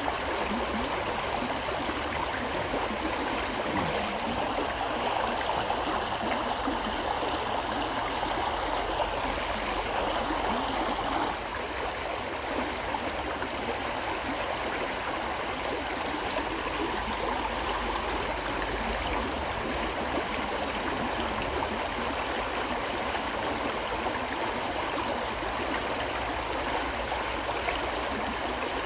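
A river flowing steadily, a continuous rush of water with its level dipping slightly about eleven seconds in.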